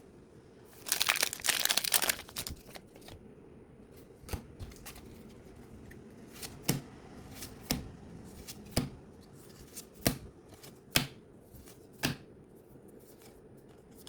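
Pokémon TCG booster pack's foil wrapper torn open in a crinkly rip about a second in. Then cards are flicked through one at a time, with a sharp card snap about once a second.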